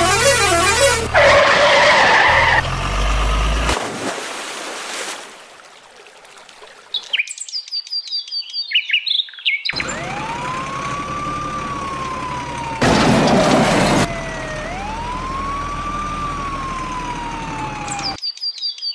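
A string of cartoon sound effects for toy vehicles: a loud warbling horn-like noise at the start, a run of quick chirps, then a siren wailing slowly up and down twice, with a brief burst of noise between the two wails.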